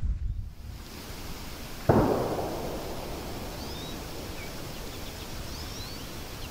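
A single rifle shot about two seconds in, its report echoing and dying away over a second or so. A few short bird chirps follow.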